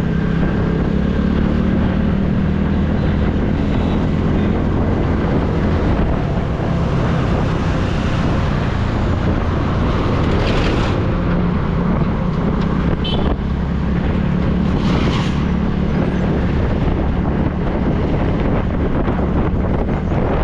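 Steady riding noise from a TVS Ntorq 125 scooter under way: its single-cylinder engine's low hum mixed with wind buffeting the microphone. Brief louder rushes of noise come about ten and fifteen seconds in.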